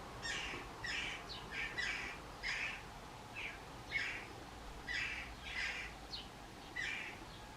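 Fledgling jackdaw's repeated begging calls for food: about a dozen short, harsh calls, coming irregularly at roughly one to two a second.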